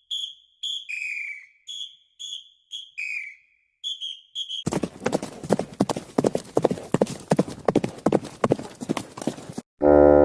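A string of short, high chirping calls, a few sliding downward, followed after a short pause by about five seconds of quick, irregular clip-clopping, like horse hooves on hard ground.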